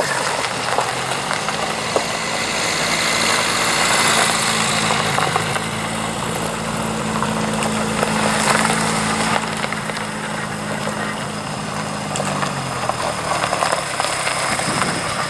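A car engine running slowly and evenly at low revs, a steady low note that drops and fades out near the end as the car moves on.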